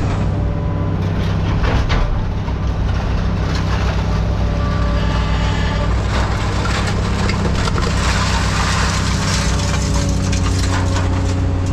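Heavy tracked scrap-handling machine running steadily, with crunching and clanking of scrap being gripped and moved.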